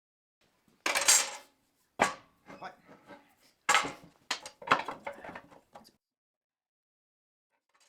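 Steel pieces clanking and knocking together, a series of sharp metallic hits with a short ring after each, spread over about five seconds.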